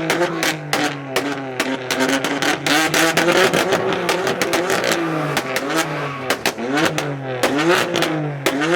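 Car engine revved over and over, its pitch rising and falling, more quickly in the second half, with a rapid crackle of exhaust pops throughout.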